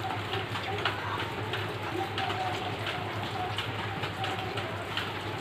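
Close-miked mouth biting and chewing a hard, chalky grey lump, giving many small irregular crunches and crackles over a low steady hum.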